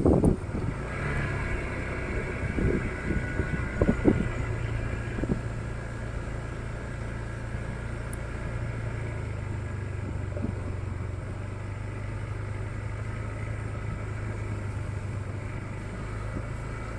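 Motorcycle engine running steadily at an even pitch, with a few short knocks in the first five seconds.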